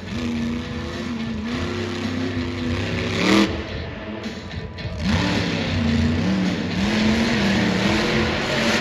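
Monster truck's blown, alcohol-burning engine revving hard on and off the throttle. The pitch climbs sharply about three seconds in, then backs off and comes back on a second or two later.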